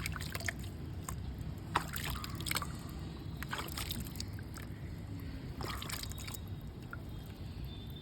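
Gritty wet red mud crumbling and crunching, with sloshing water, in about four bursts of crackling over a steady low background rumble.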